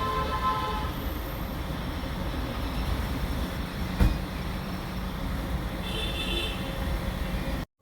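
Street traffic: a steady low rumble of passing vehicles, with brief tones near the start and again around six seconds, and a sharp knock about four seconds in.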